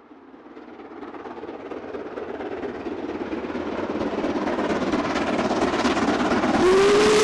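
A rumbling, rolling train sound fades in from silence and grows steadily louder, like a train approaching. Near the end a whistle starts.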